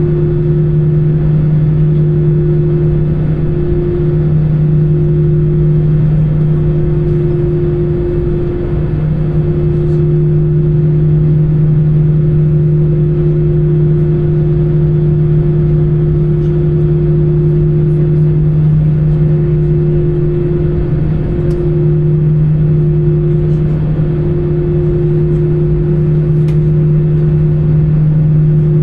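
Airbus A320 cabin noise: the jet engines and airflow making a loud, steady drone with two constant low hums over a rumble.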